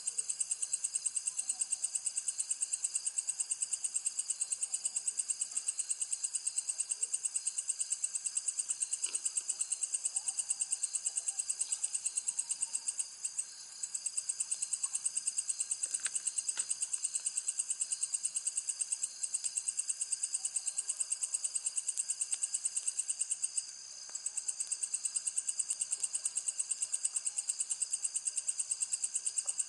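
Insects trilling in a steady high-pitched chorus of rapid, even pulses, breaking off briefly twice.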